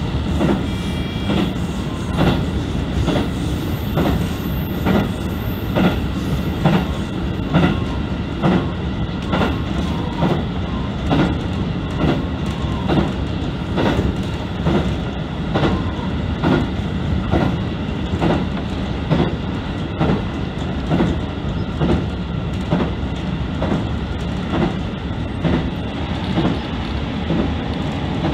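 KiHa 75 diesel multiple unit running at speed, with regular clacks of the wheels over the rail joints about twice a second over a steady running noise.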